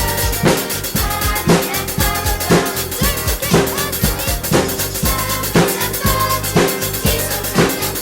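Acoustic drum kit played along to a backing track, with bass drum and snare keeping a steady beat of about two hits a second under the track's melody.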